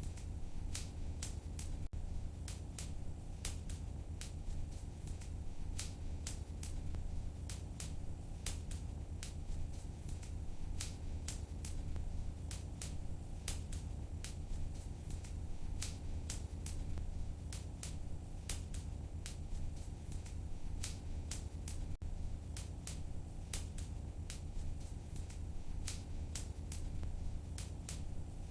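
Wood fire crackling in a fireplace: many sharp, irregular pops and snaps over a steady low rumble of the burning fire.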